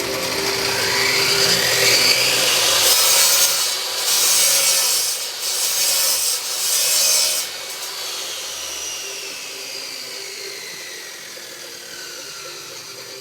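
Power saw spinning up, cutting through wood in a few passes with short breaks, then its whine falling slowly as it winds down.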